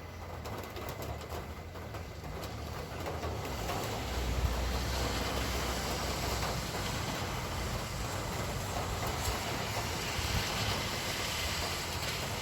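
Traffic on a wet street: a vehicle's low engine rumble builds about four seconds in as it passes, with the hiss of tyres on the wet road running on steadily afterwards.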